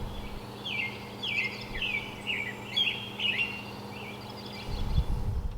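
A bird chirping outdoors, a quick series of short, falling chirps in the middle stretch, over a steady low hum. Near the end there is a low rumble.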